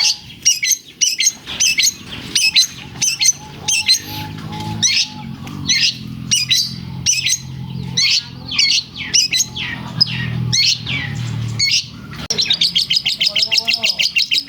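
Long-tailed shrike singing loudly, a dense run of sharp, high chirps mixed with mimicked lovebird calls, ending in a fast, even rattling trill near the end.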